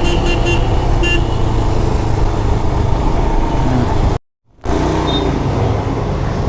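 City traffic noise heard from a moving motorcycle: a steady rumble of engines and road, with a vehicle horn tooting several short times in the first second or so. The sound drops out completely for a moment about four seconds in, then the same traffic noise resumes.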